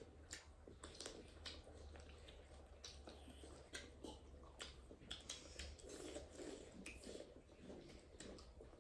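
A person eating duck curry: quiet chewing with frequent soft mouth clicks and smacks, over a low steady hum.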